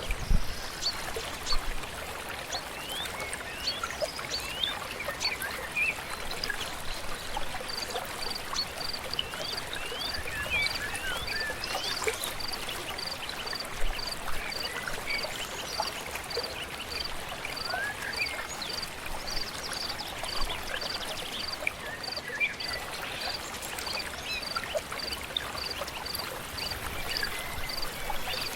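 Steady running water of a stream, with many birds chirping throughout. From about eight seconds in, a high short note repeats evenly about twice a second.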